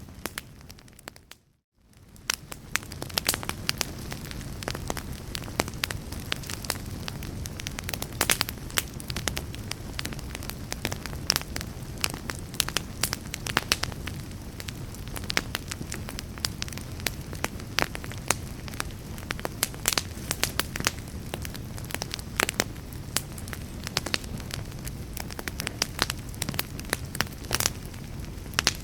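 Fire in a fireplace crackling, with frequent sharp pops and snaps over a low steady rumble. The sound fades out briefly about a second in and fades back up.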